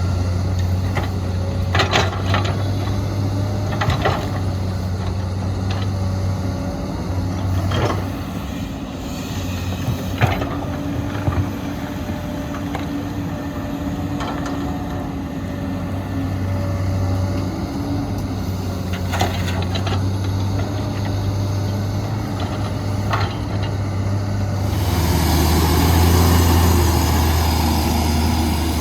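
Heavy diesel earthmoving machinery running steadily, with sharp metallic clanks every few seconds. About 25 seconds in, the engine sound changes and grows louder.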